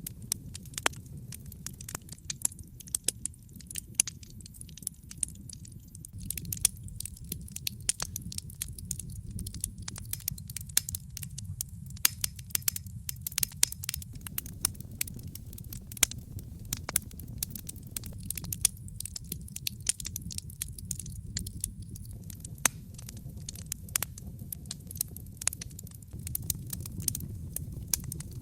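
Wood fire burning in a fireplace: dense, irregular crackling with frequent sharper pops over a steady low rumble.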